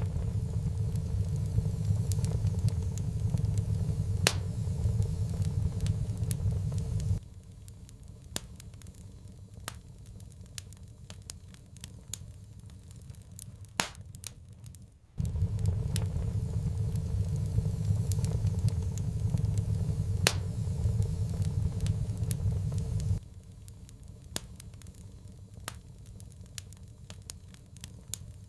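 Wood fire crackling, with frequent sharp pops and snaps. A loud low rumble of the flames is present at the start, cuts out abruptly about seven seconds in, returns abruptly about halfway through for roughly eight seconds, then cuts out again, leaving only the crackle.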